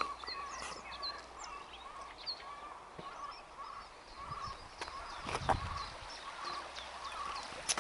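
Birds calling in short repeated chirps, some high and some lower, with a brief scuffing noise about five seconds in.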